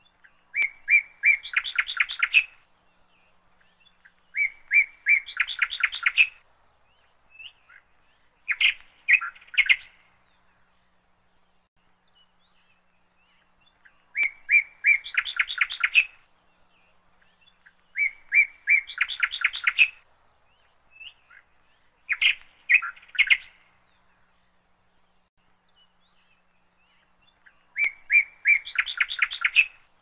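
A small bird calling: each phrase opens with a few clear high chirps and runs into a fast rattle of notes, lasting about two seconds. The phrase comes seven times, with pauses of a few seconds between.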